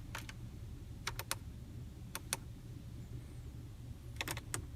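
Overhead console light buttons in a car cabin being pressed, about ten sharp clicks in small groups of two or three, over a low steady hum.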